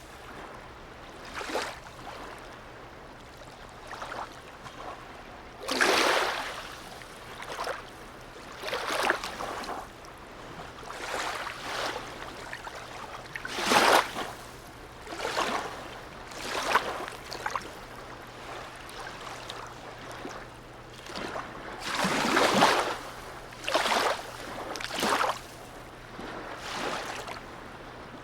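Small sea waves lapping and splashing against a harbour quay, in irregular splashes every second or two over a steady wash of water.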